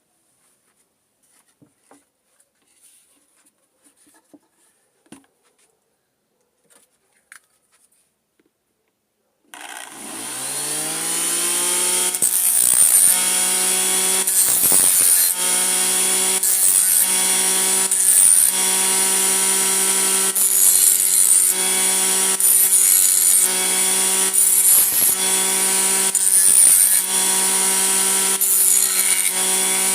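A blender motor rigged as a grinder and sander: a few faint clicks, then about a third of the way in the motor switches on and spins up to a steady high whine. Short bursts of harsh scraping recur every second or two, as work is pressed against the spinning wheel or disc.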